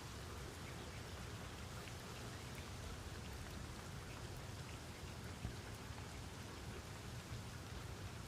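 Steady rain falling, with scattered drops tapping on a surface.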